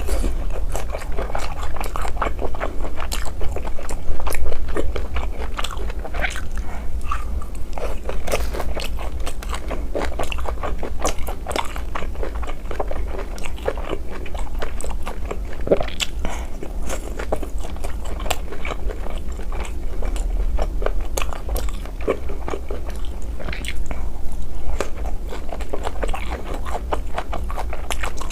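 Close-miked mouth sounds of someone chewing and biting barbecued meat from skewers: a steady run of wet crunches, clicks and smacks. A low steady hum runs underneath.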